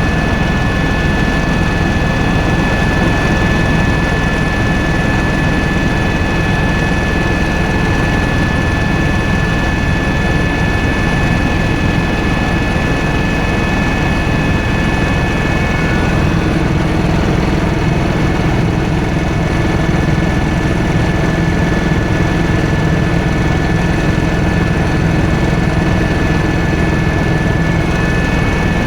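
Helicopter running, heard from inside the cabin: a loud, steady engine and rotor drone with a high, steady whine over it. The whine shifts slightly about halfway through.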